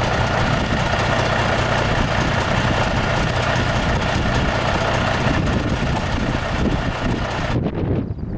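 Heavy diesel engine of the lifting machinery running steadily, a constant low hum under a broad noise; the higher part of the noise cuts off abruptly near the end.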